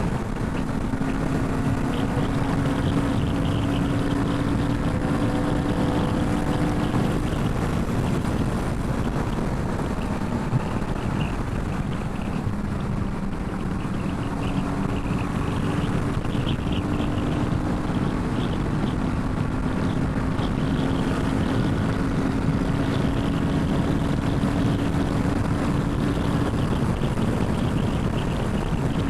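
Royal Enfield Himalayan 450's single-cylinder engine running at a steady cruise while riding, under heavy wind rumble on the microphone.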